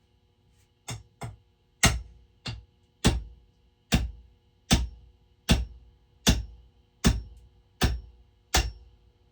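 About a dozen sharp hammer blows, roughly one every 0.8 seconds, the first two lighter, driving a wedge into the eye of an axe head to fix it on its handle.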